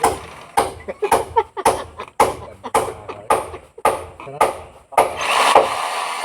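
A hammer striking concrete in a run of about ten sharp knocks, roughly two a second, each ringing briefly. About five seconds in, the steady running of a hammer drill takes over.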